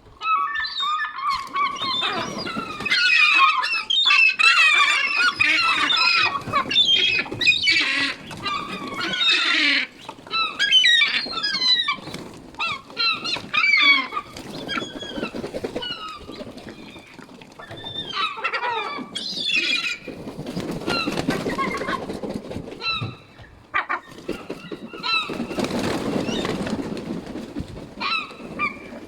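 A flock of hungry seabirds calling over one another in a loud, continuous chorus of wavering cries, densest in the first ten seconds. Two stretches of low rushing noise come in later, one about two-thirds of the way through and one near the end.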